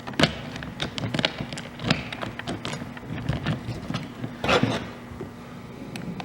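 Light clicks, taps and rattles of metal parts being handled as a pole chainsaw's chain and guide bar are fitted, with one louder clatter about four and a half seconds in.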